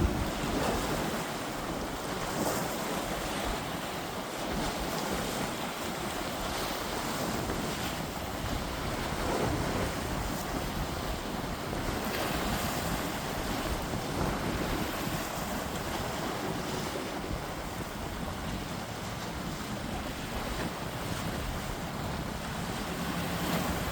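Sea waves washing against coastal rocks in a steady surge that swells and eases, with wind buffeting the microphone.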